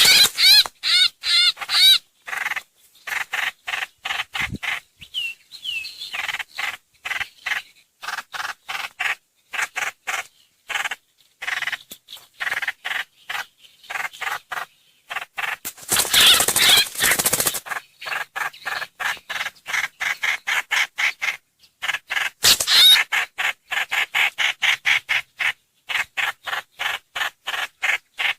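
Lure recording of the bird known in Vietnam as trao trảo (hoành hoạch): a fast, unbroken string of short, sharp calls with warbled notes mixed in, interrupted by harsher noisy calls about halfway through and again near the end.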